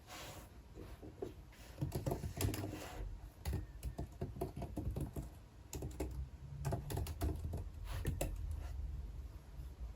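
Typing on a computer keyboard: keystrokes come in two busier runs with scattered single taps between.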